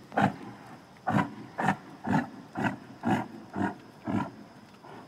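An animal making about eight short, rough calls in a steady rhythm, roughly two a second, stopping a little after four seconds in.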